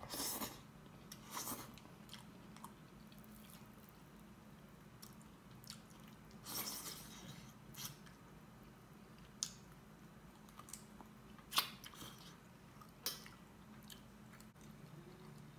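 Close-miked eating sounds from a man eating by hand: wet chewing and lip smacks, loudest as a mouthful goes in at the start and again about six to seven seconds in. Several short sharp mouth clicks come later.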